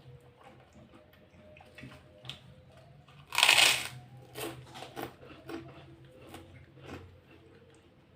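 A person eating tempe close to the microphone: one loud crunchy bite about three seconds in, then a run of wet chewing clicks and smacks.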